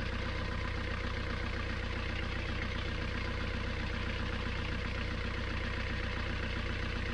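Sailboat's inboard engine running steadily at idle with an even pulse, its refitted seawater pump back on; it is left running to check that everything works after the repair.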